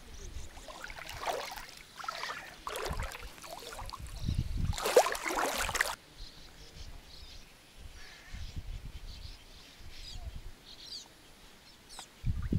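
Several swishing noise bursts over the first six seconds, the loudest about five seconds in, then faint bird chirps.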